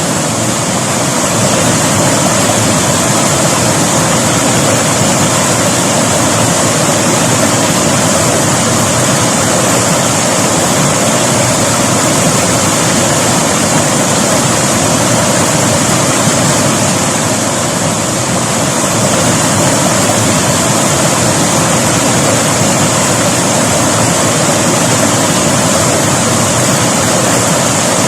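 River water rushing steadily, a continuous even hiss and roar of flowing water.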